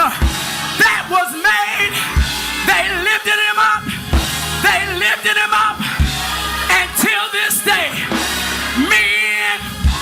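Live gospel music: a voice singing in short, wavering phrases over sustained keyboard bass notes, with occasional drum hits.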